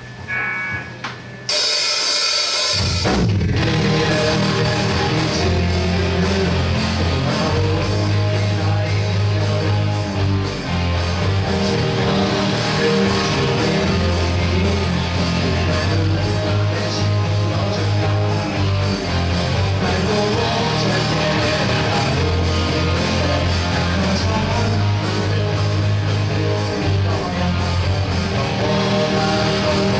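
Rock band playing with drum kit, bass and electric guitars: after a brief quieter opening, the band comes in about one and a half seconds in and the bass joins about a second later, then the band plays on steadily.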